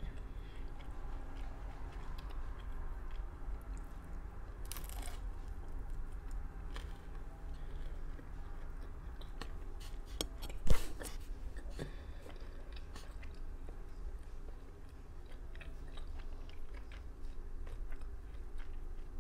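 Close-miked chewing and biting of homemade pizza, with small crunches of the crust. One sharp knock about ten seconds in is the loudest sound.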